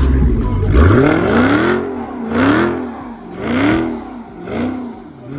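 Car engine revved hard again and again, its pitch rising and falling about once a second, four revs in a row over a deep rumble.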